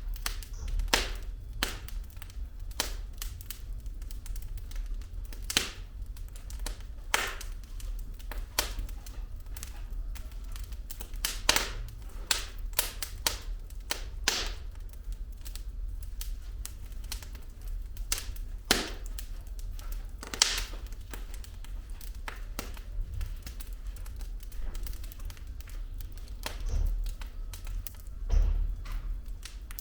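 Wood fire burning in a fireplace, with irregular sharp crackles and pops from the burning logs over a low steady rumble of the flames.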